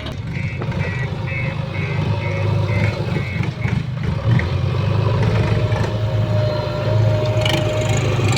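Diesel engine of a backhoe loader running and working, getting louder. In the first few seconds there is a row of short high beeps, about two a second.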